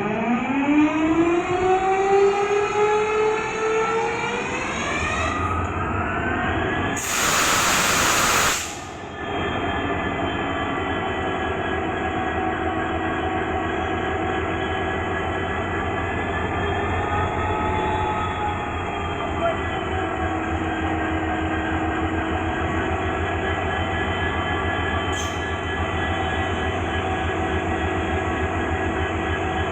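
WDP4 diesel locomotive's 16-cylinder two-stroke EMD engine starting up: a whine rising in pitch over the first few seconds as the engine comes up to speed, a loud hiss of air for about two seconds around eight seconds in, then steady idling with a low hum.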